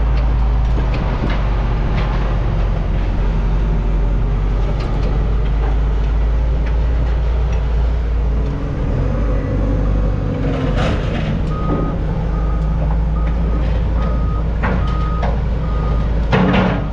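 Heavy diesel equipment running with a steady low rumble and a few metal clanks; about two-thirds of the way in a back-up alarm starts beeping, about one and a half beeps a second.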